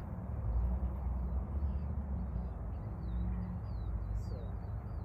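A songbird singing faintly, a quick run of short high chirps, over a steady low rumble.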